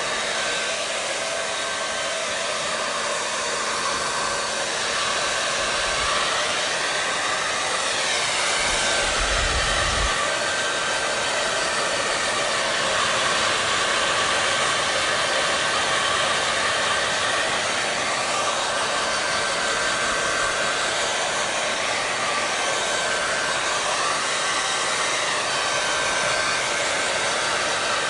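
Hair dryer blowing continuously: a steady rushing airflow with a faint constant whine. Its tone sweeps gently up and down a few times.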